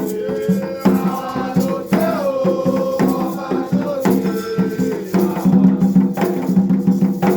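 Afro-Brazilian religious song for the orixá Xangô: singing over drums and shaken rattles in a steady rhythm.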